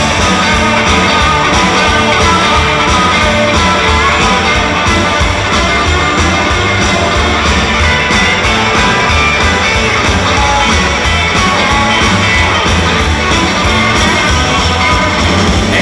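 Rock and roll band playing loud amplified music, an instrumental stretch led by strummed guitar over a steady bass and drum pulse.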